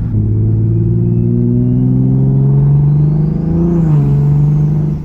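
Big-turbo MKV Toyota Supra's inline-six, fitted with a T51R-modified 6466 turbo, a catless downpipe and an AWE track cat-back, pulling under load, its exhaust note climbing steadily in pitch for about four seconds before dropping. A high whine climbs alongside it and falls away at the same point.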